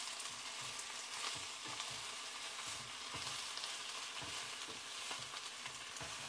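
Baby spinach sizzling in hot oil in a cast-iron skillet as a steady hiss, stirred with wooden chopsticks, with soft irregular low thuds.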